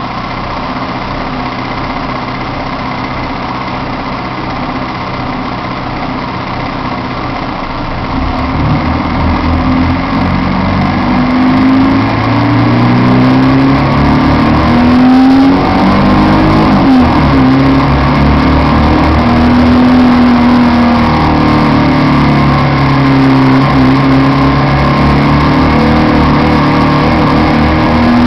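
A Heuliez GX 427 articulated city bus running with an abnormal noise, much louder than its normal running sound. It grows louder about a third of the way in, with strong low droning tones that rise and fall in pitch as the bus accelerates and slows.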